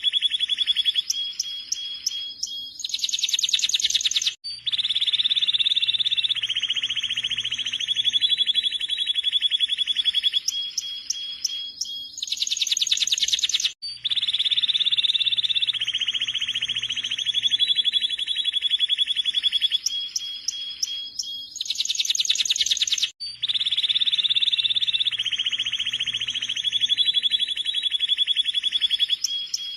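Domestic canary singing: long rapid rolling trills and higher chirps, one passage after another. The same song sequence repeats about every nine seconds, as in a looped recording.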